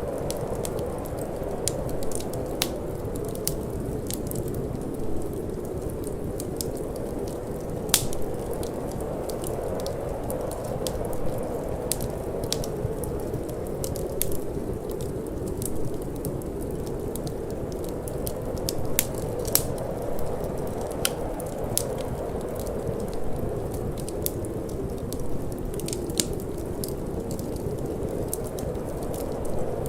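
Wood fire in a fireplace crackling, with irregular sharp pops, the loudest about eight seconds in, over a steady low rush of wind.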